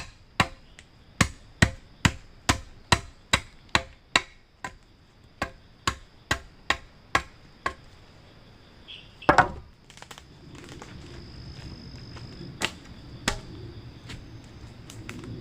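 Rhythmic chopping with a blade, about two and a half strikes a second for the first half, pausing briefly. A longer scraping hit follows, then a low steady noise with two more knocks.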